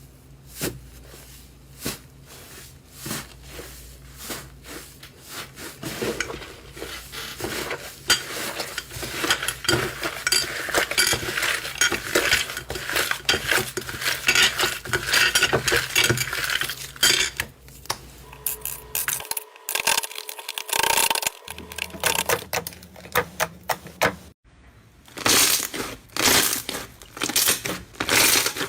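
Slime being squeezed and poked by hand: sharp sticky clicks and pops, thickening into dense crackling through the middle, with the texture changing between clips and a fresh run of clicks near the end.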